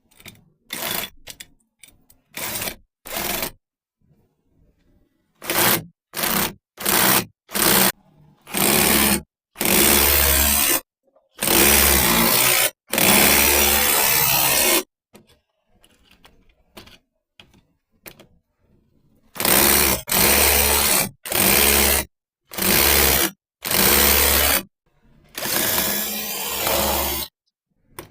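A handheld electric power tool running in repeated bursts, triggered briefly several times and then in runs of one to two seconds, with a steady low motor hum under the longer runs.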